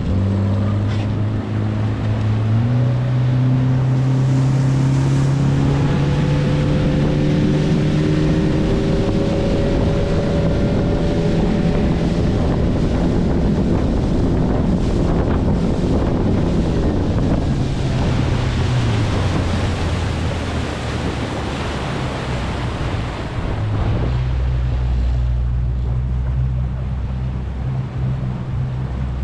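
Boat motor speeding up a few seconds in and running at speed, with wind and water rushing past, then easing back to a lower, steady run near the end.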